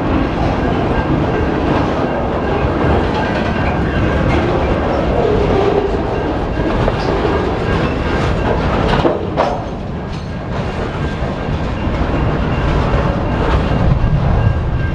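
Freight cars of a CN freight train rolling past: a steady rumble of steel wheels on rail with clickety-clack over the rail joints, and a sharper clank a little past halfway.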